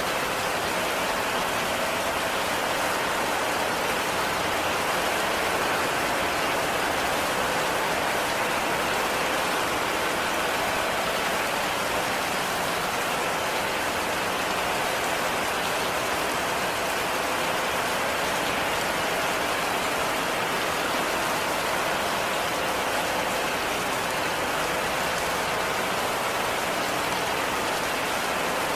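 Steady heavy rain falling on a roof, a dense, even hiss of drops.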